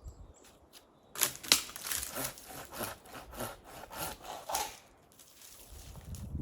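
Hand saw cutting through wood in a quick run of strokes, about three a second, starting about a second in and stopping near the end.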